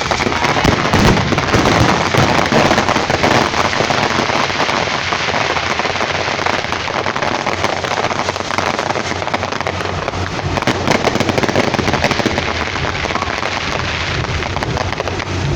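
Many fireworks and firecrackers going off at once in a dense, continuous crackle of overlapping pops and bangs.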